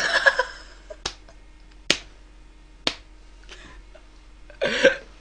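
Three sharp clicks about a second apart, with a short burst of voice at the start and another near the end.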